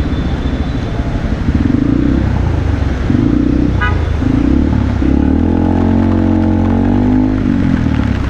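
Motorbike engine running in city traffic with steady road and wind noise; about five seconds in, the engine note rises for a couple of seconds as the bike accelerates.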